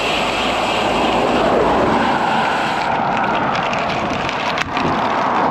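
Road traffic passing a cyclist: steady tyre and engine noise, with a falling pitch as a vehicle goes by about a second in. A short click about four and a half seconds in.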